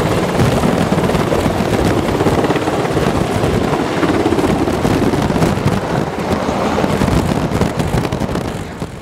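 Helicopter rotor and turbine noise, loud and steady, with a rapid chop, fading out near the end.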